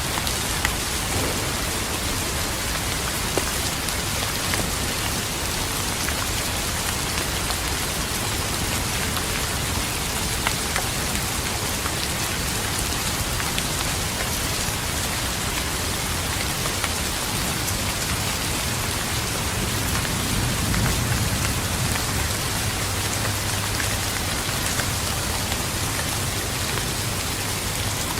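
Steady rain falling on a surface, with scattered sharp drips, and a low thunder rumble swelling up about two-thirds of the way through.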